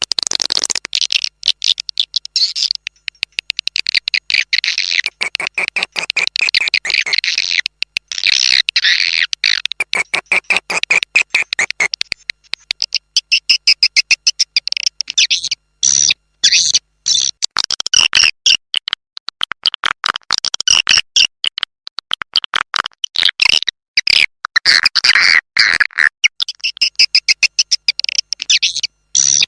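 Swiftlet lure call track: dense, rapid, high-pitched twittering chirps and clicks, repeated with only brief gaps, played to draw swiftlets into a bird house.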